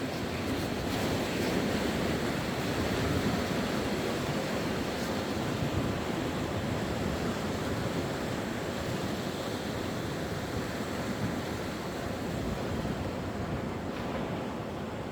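Sea waves washing on the shore: a steady surf that is a little louder in the first few seconds and then eases slightly.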